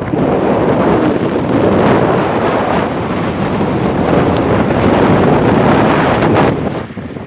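Strong wind buffeting the microphone, a loud, steady rush that eases briefly near the end.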